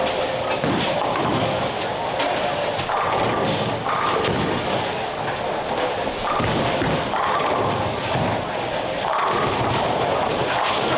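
Bowling alley din: overlapping background chatter with scattered thuds from balls and pins.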